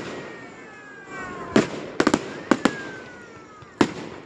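Fireworks going off: a cluster of sharp bangs in the middle, one more near the end, and falling whistling tones in between.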